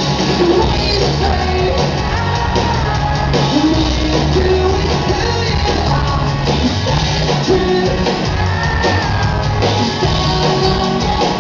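Rock band playing live with a singer: guitars and drums with vocals, loud and steady, echoing in a large hall.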